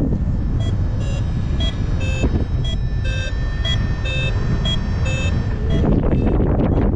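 Paragliding variometer beeping in short pitched beeps, about two a second, shifting in pitch, then falling silent about five seconds in: the climb tone that signals the glider is rising in lift. Loud wind rushes on the microphone throughout.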